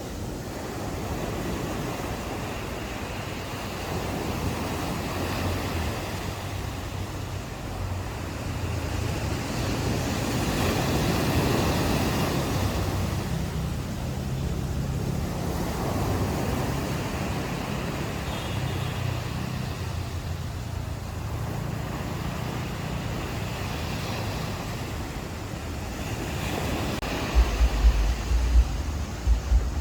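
Ocean surf washing onto a beach in slow swells, the loudest surge about a third of the way in. Near the end, wind buffets the microphone in low gusts.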